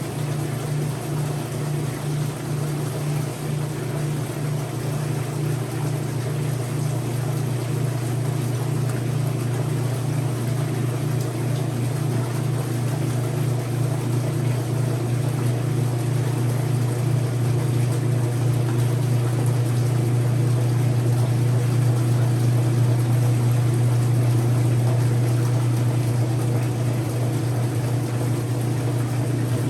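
Whirlpool direct-drive washer running: a steady low motor hum with a steady noise over it, growing slightly louder through the middle.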